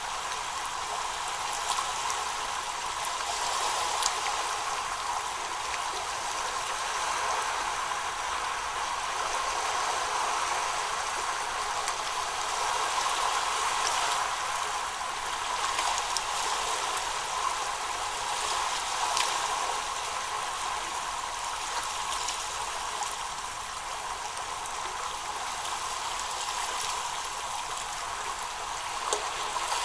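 Steady rushing of flowing water, with scattered faint ticks and splashes.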